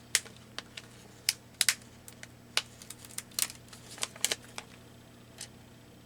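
Irregular sharp clicks and taps from handling paper and craft tools on a tabletop, a dozen or so over the first four and a half seconds.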